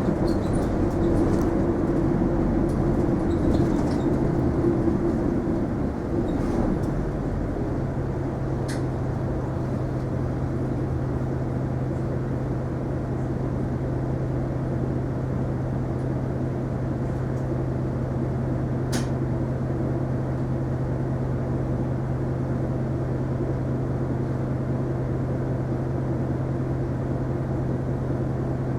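Isuzu Erga non-step city bus heard from inside the cabin: it runs for the first several seconds, then settles into a steady, even low engine hum as its diesel idles at a standstill. A couple of sharp clicks sound over the idle.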